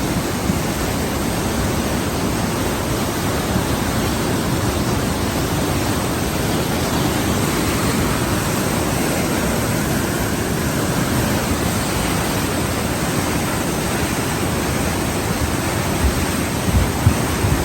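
Steady, even rushing noise, with a few low buffets near the end.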